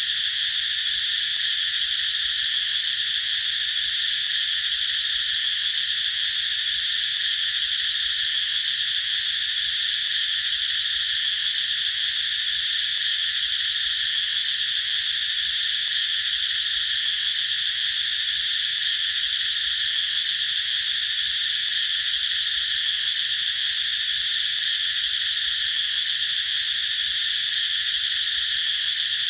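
Cicadas singing: a continuous, steady high-pitched drone that does not pulse or break.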